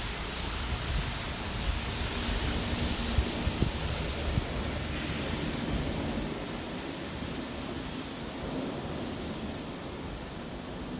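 Steady hiss of rain on a city street, with wind rumbling and buffeting on the microphone; the hiss eases about halfway through.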